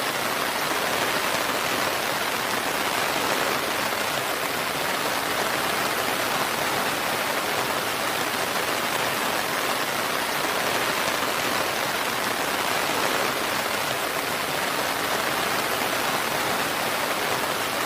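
Steady, even rainfall, a dense hiss of drops on surfaces with no thunder or separate events.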